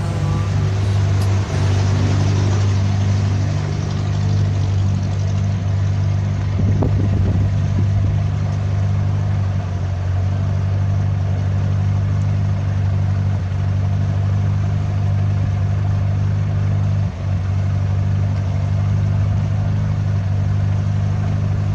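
The engine of a 1960 Freeman 22 Mk1 motor cruiser running steadily underway, as a low drone that holds even throughout.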